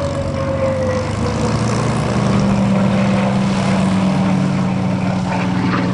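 Propeller-driven warbird's piston engine running. A tone slides down in pitch through the first second, then settles into a steady low drone.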